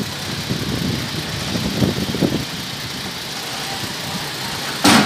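Scania P410 truck's diesel engine idling steadily, with one short, sharp burst of noise near the end.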